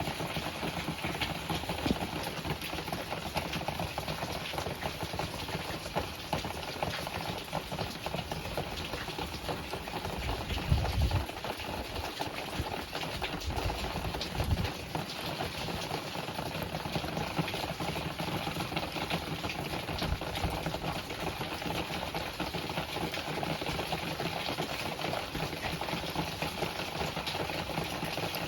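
Typhoon wind and rain heard from indoors: a steady rushing noise, with brief low rumbles of stronger gusts about eleven and fourteen seconds in.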